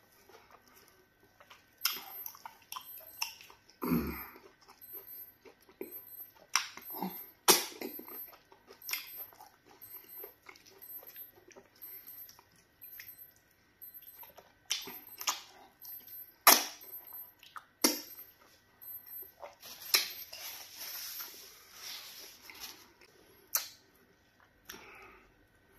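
Close-up eating sounds of a person eating pounded yam fufu and okra soup by hand: wet chewing, lip smacks and sharp mouth clicks at irregular intervals, with a longer rushing sound about 20 seconds in.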